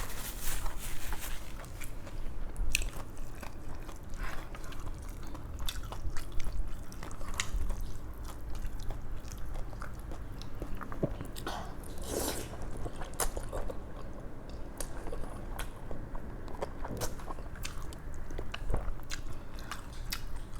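Eating sounds close to the microphone: a person biting and chewing food, with scattered crunches and irregular wet clicks, a louder cluster about twelve seconds in.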